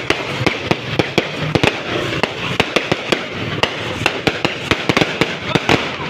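Fireworks going off in a dense, irregular barrage of sharp bangs, several a second, over a continuous crackling din.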